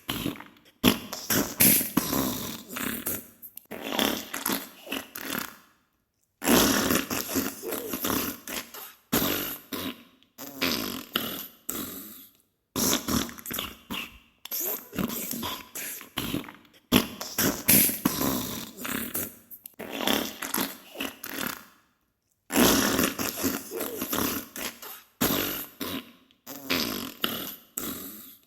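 Diarrhea sound effect: sputtering farts made of many rapid crackles, in a series of bursts a second or two long, with a few brief silent breaks.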